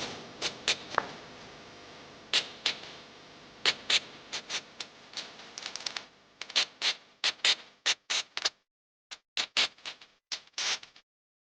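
Sharp clicks and knocks in quick, irregular runs, with a brief dead stop about three-quarters of the way through.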